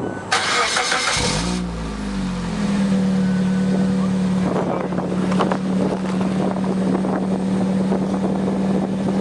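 Suzuki Swift Sport (ZC31S) 1.6-litre four-cylinder breathing through a Rosso Modello Ti-C muffler: the starter cranks briefly about half a second in, and the engine catches with a rising flare. It then settles into a steady idle from about two and a half seconds in.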